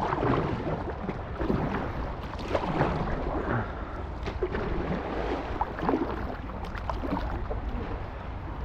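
Paddle strokes splashing beside an inflatable kayak as river water rushes along it, over a steady low rumble, with a scatter of small splashes.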